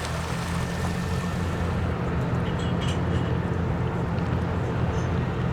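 Amphibious bus engine running with a steady low drone.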